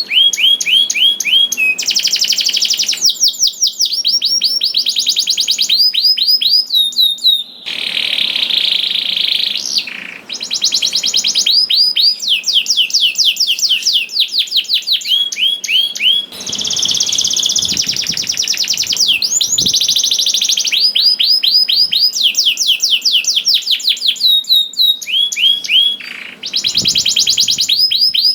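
Domestic canary singing a continuous song of fast trills: long runs of quickly repeated, down-slurred notes that change to a new phrase every second or two, broken by a few buzzy rolls.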